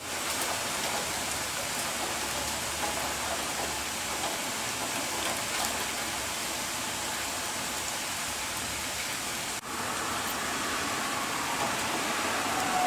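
Heavy rain falling steadily, an even hiss of drops. About three-quarters of the way through, the sound cuts abruptly to another stretch of rain, with a faint rising whine near the end.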